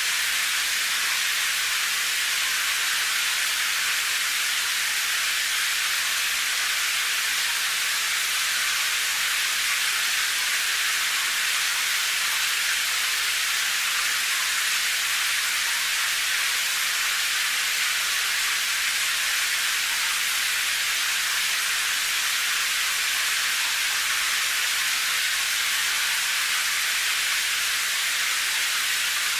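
Steady rain, a dense even hiss with no separate drops or thunder standing out.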